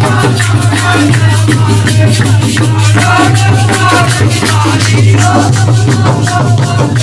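Instrumental passage of a Holi folk song: a wavering melody over a steady low drone, driven by a fast, even rattling percussion beat.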